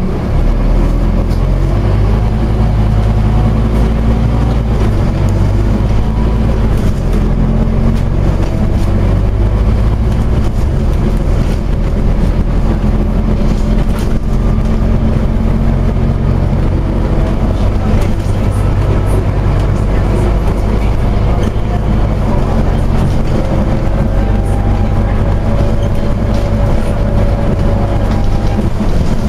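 Scania OmniCity double-decker bus under way: a steady low engine drone whose pitch steps up and down several times as it changes speed and gear.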